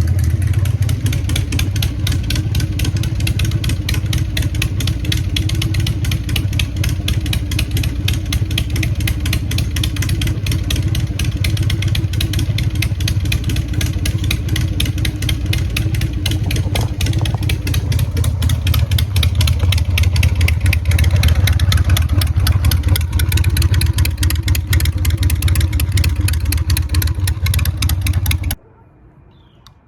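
Harley-Davidson V-twin motorcycle engine running steadily at a low rumble, a little louder in the second half, then cutting off suddenly near the end.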